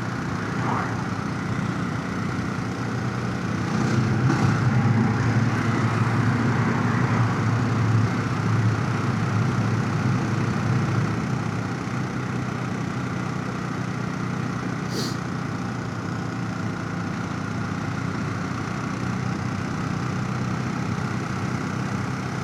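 Motorcycle engine running steadily while riding, with wind rush over a helmet chin-mounted camera. The engine grows louder for several seconds a little way in, then settles back. There is one brief high click about two-thirds of the way through.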